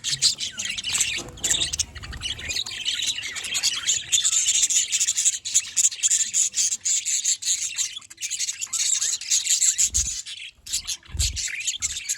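A flock of budgerigars chattering and chirping together, many birds at once without a break, with a few low thumps near the end.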